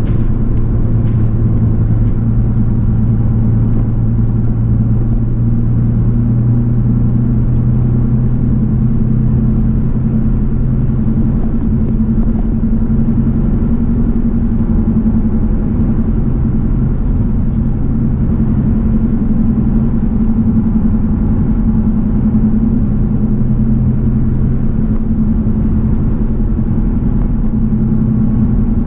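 2006 BMW Z4 3.0si's straight-six engine running at a steady cruising note, mixed with road and wind noise, heard from inside the cabin.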